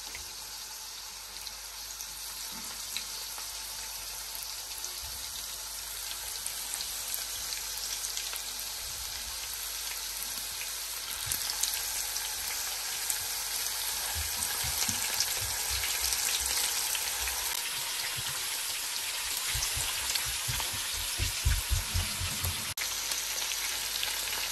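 Potato-coated chicken pieces shallow-frying in hot oil in a nonstick frying pan, a steady sizzle that grows louder as more pieces are laid in. A few soft low knocks in the second half.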